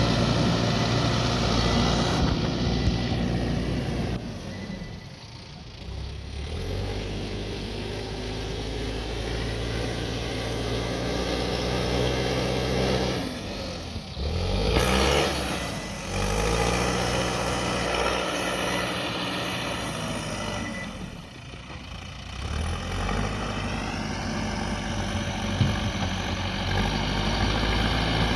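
Backhoe loader's diesel engine working, its note rising and falling as it revs up under load and eases back, easing off twice, about five seconds in and again past twenty seconds, with a brief loud surge near the middle.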